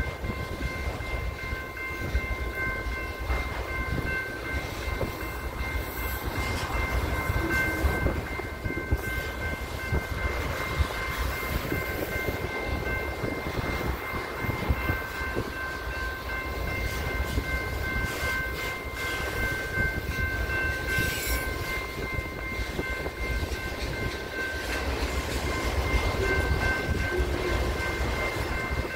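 Freight train of autorack cars rolling past, wheels rumbling and clattering over the rail joints. Over it sounds a steady, high multi-tone ringing from the grade-crossing bell.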